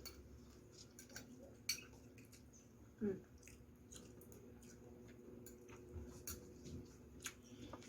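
Quiet eating sounds: soft chewing with scattered faint clicks, and a brief louder mouth sound about three seconds in. A steady low hum runs underneath.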